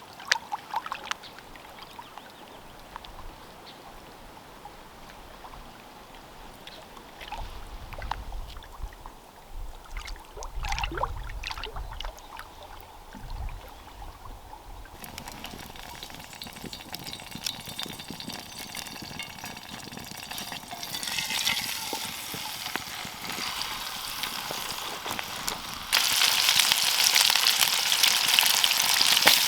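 Food frying in a pan: a few knocks and clicks of handling first, then sizzling that builds from about halfway and jumps much louder near the end.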